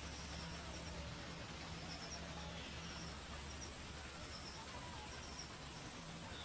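Faint outdoor ambience with distant birdsong: short high chirps in little clusters about once a second and a few faint falling whistles, over a low steady rumble.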